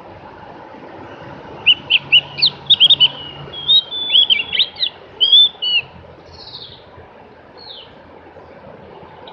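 Javan grey-throated white-eye (opior jawa) singing: a quick run of short, high chirping notes starting about two seconds in and lasting about four seconds, then two softer slurred notes, over a steady hiss.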